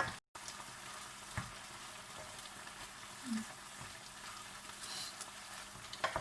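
Chicken pieces sizzling in a pan as the water they release cooks off, a steady hiss with a few light knocks. The sound breaks off completely for a moment just after the start.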